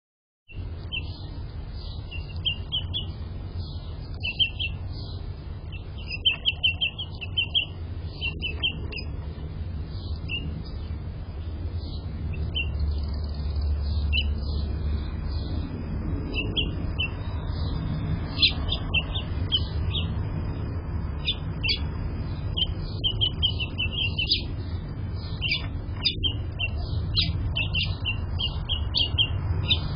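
House finches chirping at the nest: quick runs of short, high chirps, more frequent in the second half, over a steady low rumble.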